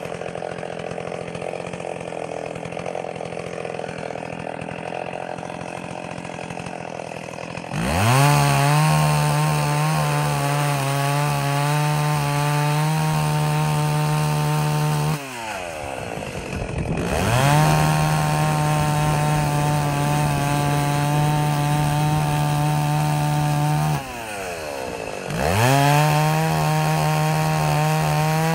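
Stihl 038 Magnum two-stroke chainsaw idling, then revving up to full throttle and cutting through wood in three spells of several seconds each, dropping back briefly between them.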